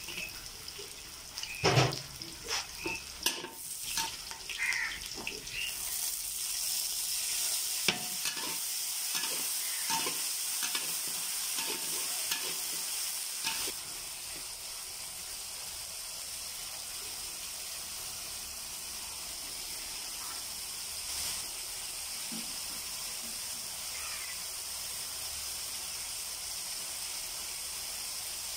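Onions and green chillies frying in oil in a wok. A metal spatula clicks and scrapes against the pan for the first few seconds. From about six seconds in there is a steady, high hissing sizzle.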